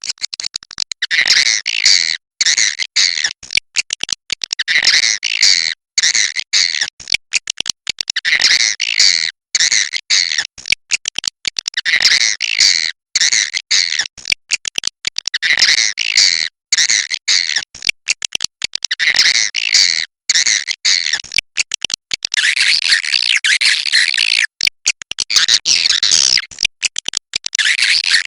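Swiftlets giving their roosting call: rapid, buzzy chirping chatter in short phrases repeated about once a second, growing denser and unbroken in the last few seconds. It is a swiftlet roosting call of the kind played to draw swiftlets into a bird house.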